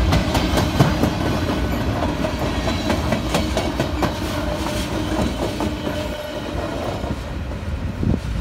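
Freight train of loaded flatcars rolling past, steel wheels rumbling and clicking irregularly over the rail joints. The rumble eases somewhat over the last couple of seconds.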